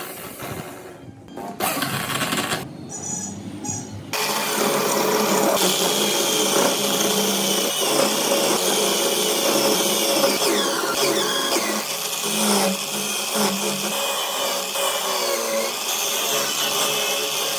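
A handheld power tool running against wood, its motor whine wavering as it bears on the work, with a few abrupt cuts between takes in the first four seconds.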